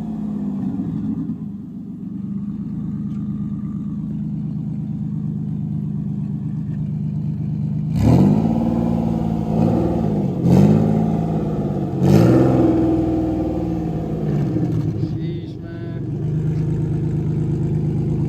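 Single-turbo Infiniti Q50's engine running steadily, then revved hard three times in quick succession about halfway through, each rev climbing sharply and falling back within a second or two.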